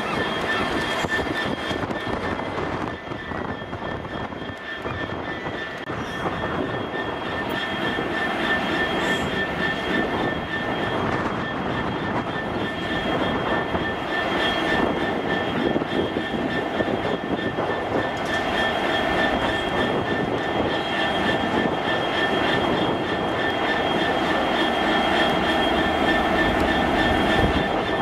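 Great Western Railway Class 800-series intercity train approaching along the platform, its running noise growing louder as it nears, with a steady high whine.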